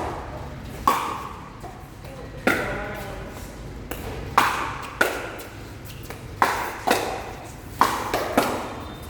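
Pickleball rally: paddles striking a plastic pickleball, about eight sharp pops at uneven intervals, each with a short ring.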